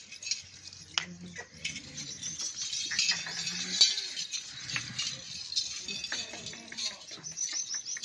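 Many small birds chirping busily and without a break, with scattered clicks and knocks.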